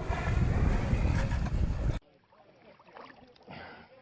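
Wind buffeting the microphone in a loud low rumble, with faint higher sounds behind it. About two seconds in it cuts off abruptly to a much quieter scene with only a few faint, soft knocks.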